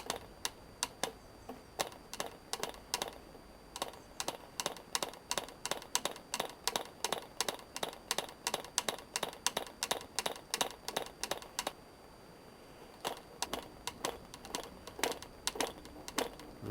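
Frog 80 0.8 cc model diesel engine being flicked over by hand at the propeller without catching: a run of sharp clicks, about two to three a second, as it comes over compression, with two short pauses.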